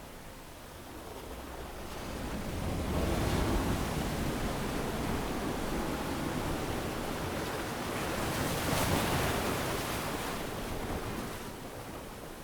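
Ocean surf washing onto a beach in a steady wash of noise. It swells about two seconds in, surges again about eight seconds in, then eases near the end.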